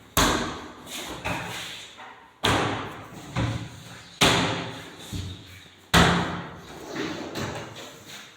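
A series of heavy slams about every one and three-quarter seconds, four loud ones with lighter knocks between them, each ringing out briefly.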